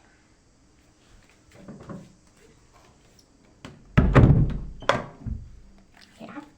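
A loud, dull thump about four seconds in, heavy in the low end and lasting about a second, followed by a few lighter knocks and clicks.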